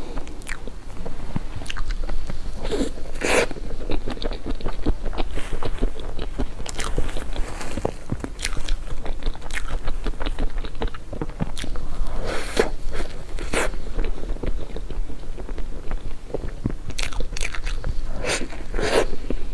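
Eating sounds from mille-crêpe cake: bites and chewing close to the microphone, with many sharp wet clicks and a few louder clusters of mouth noise.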